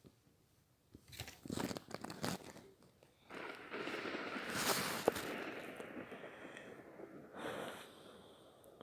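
Rustling and crinkling handling noises, a few short crackles followed by a longer stretch of rustling lasting about three seconds and a brief one near the end.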